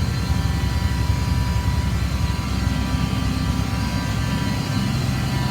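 2004 Blue Bird All American school bus idling steadily, heard from inside the bus, with the rear air-conditioning blower running, blowing but not cold.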